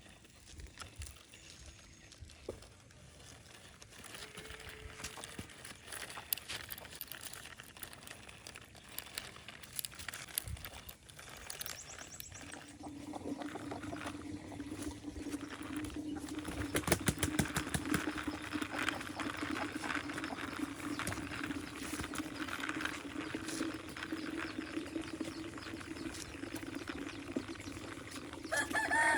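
Outdoor ambience of scattered clicks and knocks, with a steady low hum setting in about halfway through. A rooster starts to crow at the very end.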